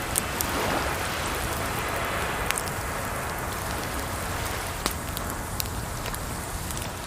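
Crackling campfire: wood snaps and pops at irregular moments over a steady hiss of running water.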